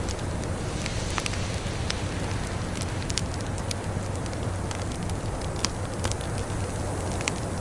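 Wood fire crackling in a fireplace: a steady hiss and low rumble with frequent sharp pops of varying loudness, the loudest about two-thirds of the way through.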